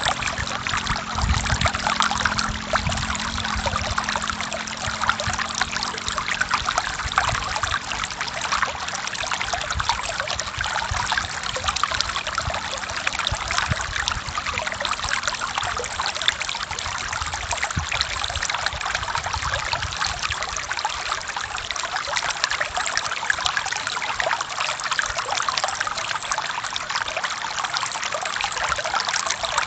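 Forest stream water flowing and trickling over rocks, a steady splashing rush.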